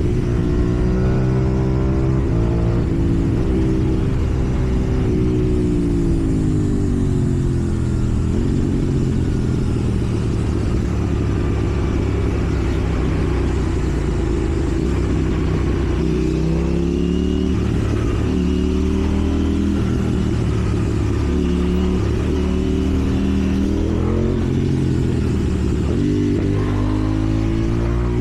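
KTM Duke 790's parallel-twin engine under way, its pitch rising and falling again and again as the throttle is opened and eased through the gears.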